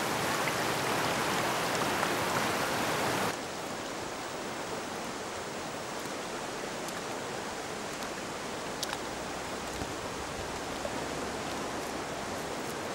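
Mountain stream rushing over stones, a loud, close, steady rush that drops suddenly about three seconds in to a quieter, steady flow of shallow water over a stony riverbed.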